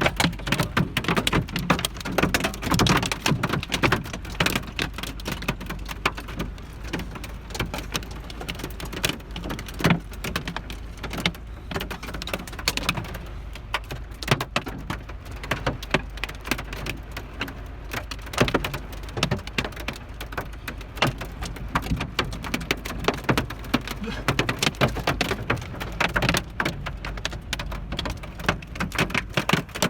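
Hail and rain pelting the metal roof and body of a Volvo 940 wagon, heard from inside the cabin: a dense, irregular clatter of hard strikes over a steady rush of rain.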